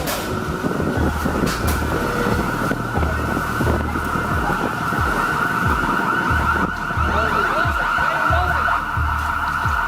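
A siren holding a steady high tone over heavy low rumbling noise.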